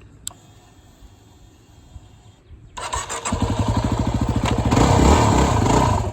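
Motorcycle engine being started: after a sharp click, it turns over and catches about three seconds in, rises in revs for a moment, then settles into a steady idle.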